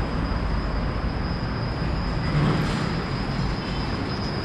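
Steady rumble of heavy road traffic, swelling slightly about halfway through as a vehicle passes.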